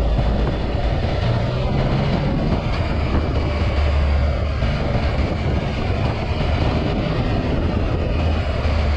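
2018 Yamaha XSR900's three-cylinder engine running through an Akrapovic carbon full exhaust while riding, its low note shifting up and down with the throttle, under a steady rush of wind noise.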